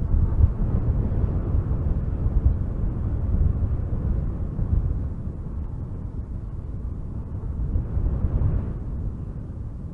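Strong wind gusting through spruce trees, a deep rushing rumble that swells and eases, strongest in the first few seconds and again about eight seconds in.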